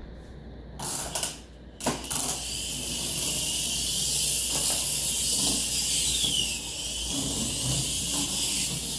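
A 28-year-old refrigerator working one of its mechanisms: two knocks about one and two seconds in, then a steady hiss with a mechanical whirring.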